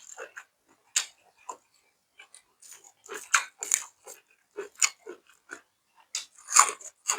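A person chewing food close to the microphone: an irregular run of short crunches and bites, louder about three and a half and again six and a half seconds in.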